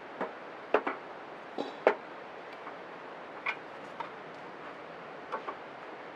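Irregular sharp clicks and knocks, about ten in six seconds, some in quick pairs, over a steady hiss.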